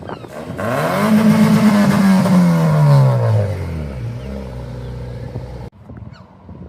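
A car engine revving hard, its pitch holding high and then sliding down to a lower steady note, as a car accelerates past or eases off the throttle. The sound cuts off suddenly a little before the end.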